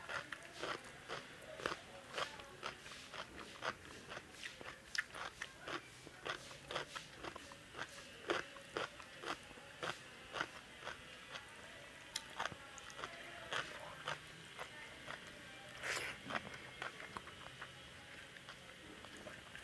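Close-miked eating sounds: a person chewing a mouthful of rice and kofta curry, with wet mouth clicks and smacks coming about two to three a second and thinning out near the end. One louder click stands out about sixteen seconds in.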